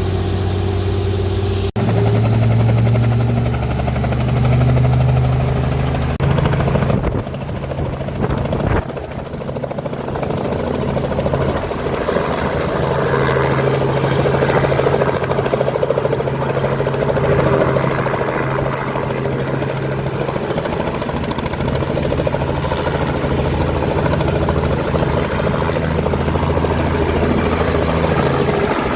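Helicopter rotor and turbine engine running steadily. There is an abrupt break about two seconds in, and the level dips briefly around eight seconds.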